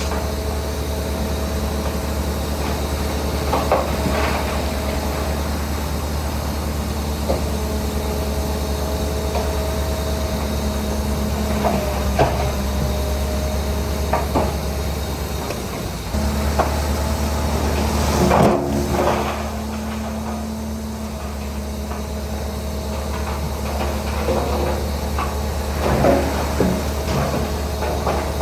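Diesel engine of heavy earthmoving machinery running steadily with a low drone and a faint whine, broken by scattered metallic clanks and knocks, the loudest cluster past the middle.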